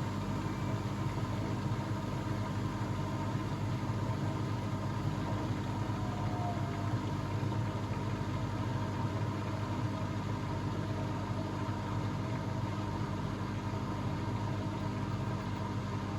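Blomberg WAF 7442 SL washing machine running with a steady mechanical hum.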